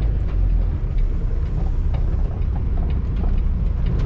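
Semi truck's diesel engine running at low speed, a steady low rumble heard from inside the cab, with a few faint ticks and rattles over it.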